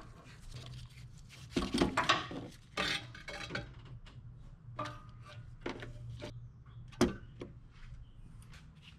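Metal parts or hand tools clinking and clanking as they are handled, in a string of separate sharp knocks with the loudest one about seven seconds in. A steady low hum runs underneath.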